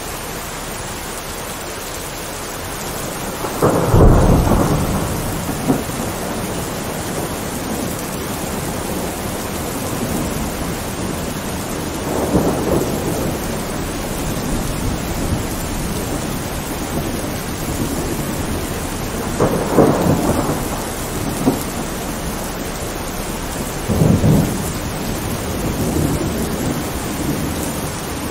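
Heavy rain falling steadily, with thunder breaking in several times. The loudest crack and rumble comes about four seconds in, and shorter rolls follow near the middle and in the last third.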